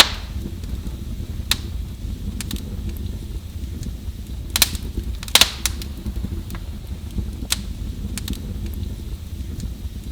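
Fireplace fire crackling: a steady low roar of burning with scattered sharp pops from the burning wood, the loudest two a little past the middle.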